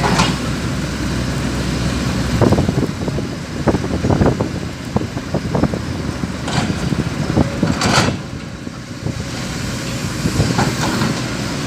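A truck's engine running steadily under irregular knocks and clatter from the coal being unloaded. The knocks come thickest in the middle and end with a louder one.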